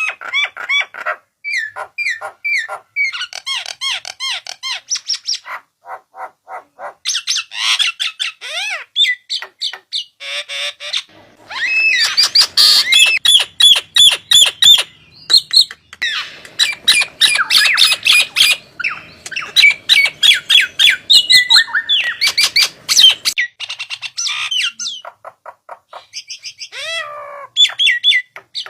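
Starling song played as a lure call: a rapid, jumbled stream of chirps, whistled notes and harsh squawks in bursts, broken by short pauses.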